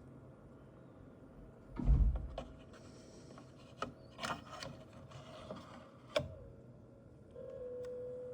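Lian Li HydroShift II LCD-S AIO cooler pump giving a steady tonal whine, which the owner blames on the pump cap: the tone dips slightly in pitch a little after six seconds and grows louder about seven and a half seconds in. A heavy knock about two seconds in and several sharp clicks and rubbing sounds come from handling around it.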